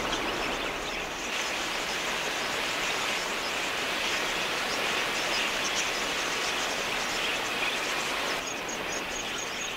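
Dense, steady chatter of a large flock of wild budgerigars, many small high chirps blending into one continuous wash of sound.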